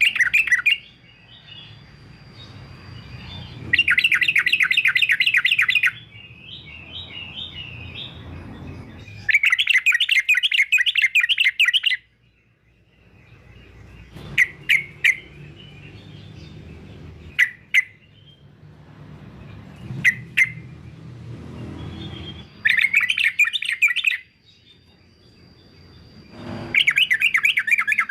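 Male yellow-vented bulbul (trucukan) singing: loud bouts of rapid, chattering repeated notes, each two to three seconds long, five in all, with a few single short chirps in between.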